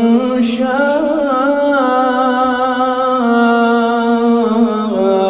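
A male Quran reciter's voice drawing out the word "shā'a" in a long, ornamented melodic hold (tajwīd madd), with slow turns of pitch and a step down to a lower held note near the end.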